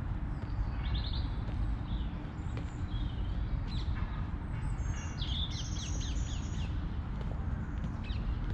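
Birds chirping in several short spells, the longest and busiest about five to six and a half seconds in, over a steady low rumble.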